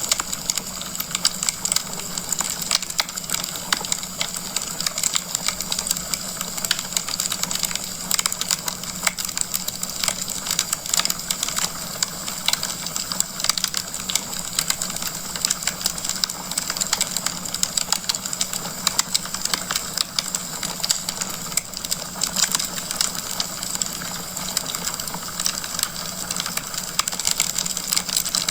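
Wood fire crackling in a fireplace: a constant, dense stream of small pops and snaps over a soft hiss.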